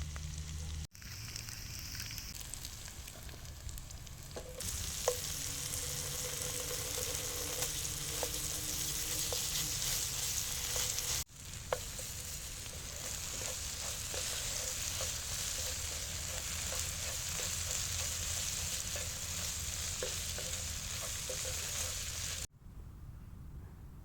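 Sausage sizzling as it fries in a pan, with light scattered taps of a utensil stirring it. The sizzle breaks off and resumes abruptly twice.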